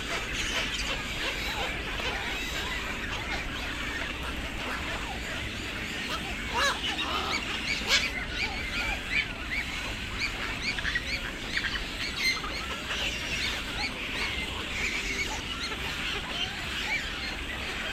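A dense chorus of many birds calling at once, short overlapping calls throughout, with a few louder calls standing out about 7, 8 and 12 seconds in.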